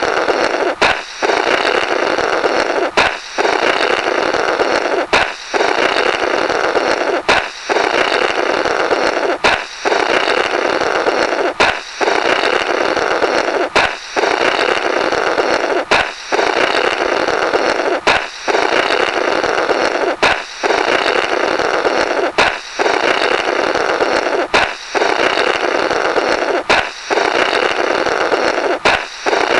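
Comic "blorrrt" balloon sound effect: a sharp balloon pop, then a long buzzy rasp of air blown through the burst balloon's remnants. It repeats about every two seconds, each rasp cut off by a short break before the next pop.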